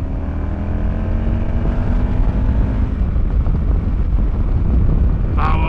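Motorcycle engine accelerating on the road, its pitch rising steadily over the first few seconds, under heavy wind rumble on the helmet microphone.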